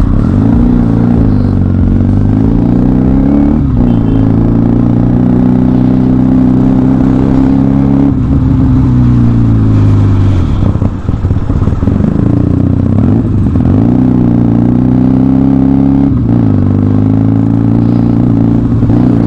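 Motorcycle engine under way, its note repeatedly dropping and climbing back up about five times as the throttle is eased and opened again.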